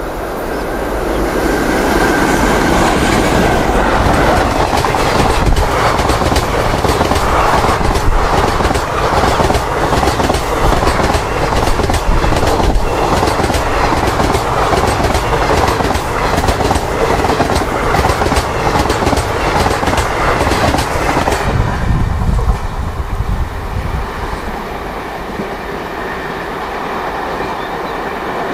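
WAP-4 electric locomotive and its passenger coaches passing at speed: a loud rumble with rapid clickety-clack of the wheels over the rail joints. The clatter stops abruptly about three-quarters of the way through as the last coach goes by, leaving a quieter rumble as the train moves away.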